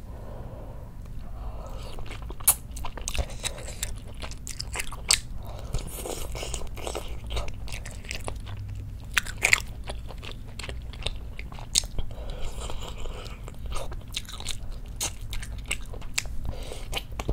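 A person chewing mouthfuls of spicy braised chicken, with many short sharp mouth clicks.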